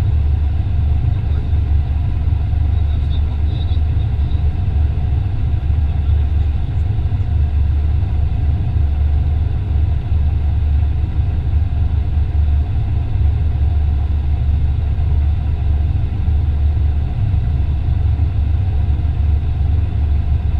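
A machine engine running steadily with a loud, even low hum.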